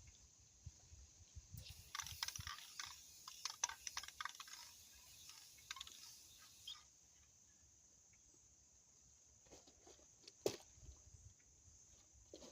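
Faint irregular clicks and crackles of something being handled, with a light hiss, lasting about five seconds; a single sharp knock follows near the end.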